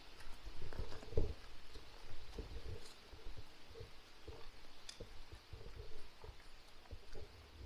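Footsteps on a woodland footpath: an irregular run of soft thuds with faint clicks.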